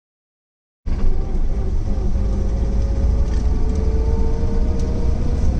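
Cut in after nearly a second of silence: the 1970 Lancia Flavia's 1.8-litre flat-four engine running steadily from cold, freshly filled with 20W-50 oil.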